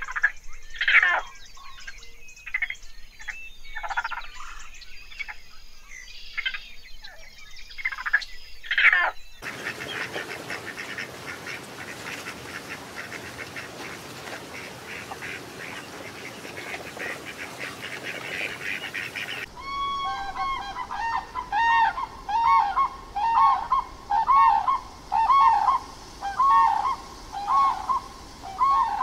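Raccoons at a feeding dish make brief, sharp sounds. Then a flock of lesser whistling ducks calls in a dense, busy chatter. Near the end a common crane gives loud trumpeting calls in a quick series, about one and a half a second.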